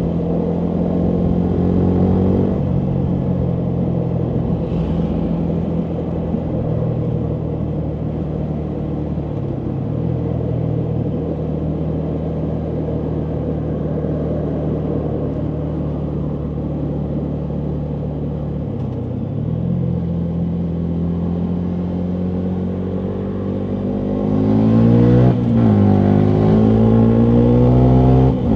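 2019 Yamaha MT125's single-cylinder 125cc engine running through a full Akrapovic exhaust, holding fairly steady revs with a few small steps in pitch. Near the end it gets louder and revs up under acceleration, dips briefly at a gear change and climbs again.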